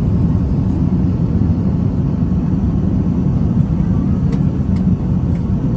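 Steady low rumble of cabin noise inside an Airbus A380-861 airliner, with three faint clicks near the end.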